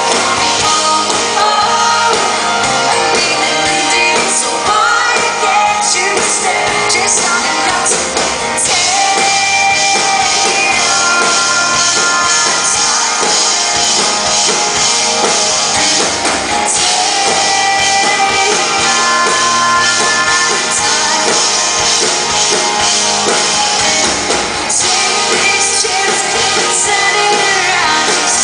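Rock band playing a song live, with a female lead vocal singing over the band.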